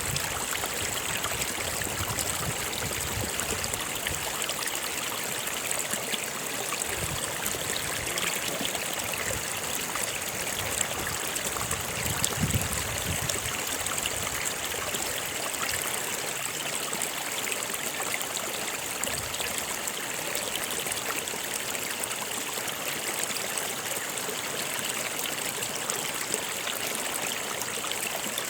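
Stream water flowing steadily, a continuous rushing and trickling, with a few low gurgles, the strongest about twelve seconds in.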